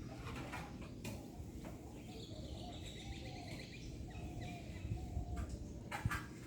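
Birds calling, a string of short chirps and calls over a low background rumble, with a couple of sharp clicks.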